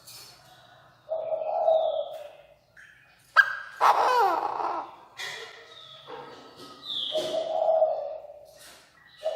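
Chinese francolin giving its loud, harsh territorial call, three call phrases a few seconds apart, the middle one the loudest.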